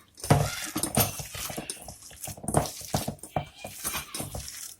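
Hands kneading and squeezing a wet minced-meat meatball mixture, a dense run of irregular squelching and slapping strokes, binding it together.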